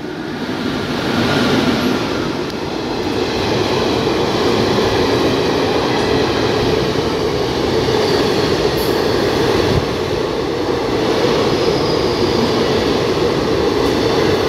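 Indian Railways express train, hauled by an electric locomotive, running through a station at speed: a steady, loud rush of wheels on rail as the coaches pass close by.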